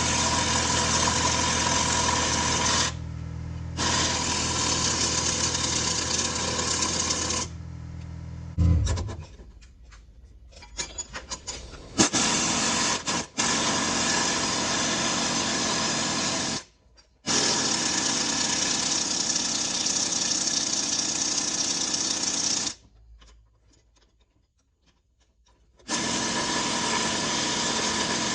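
A power tool running in long steady stretches with a high, hissing whir, stopping and starting abruptly several times. A low engine-like hum sits under the first stretch and stops about a third of the way through.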